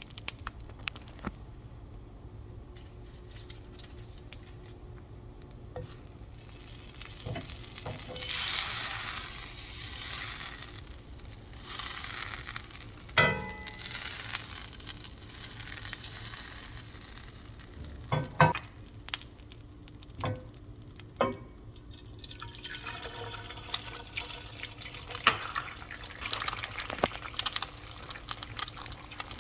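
Kitchen handling sounds: stretches of hiss like running water or frying, with a handful of sharp knocks and clinks.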